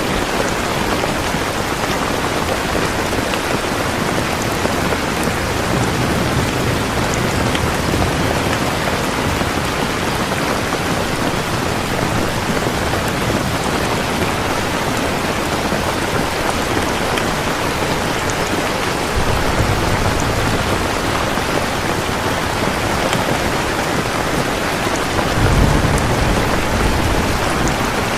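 Steady heavy rain, with low rumbles of thunder swelling up about twenty seconds in and again, louder, near the end.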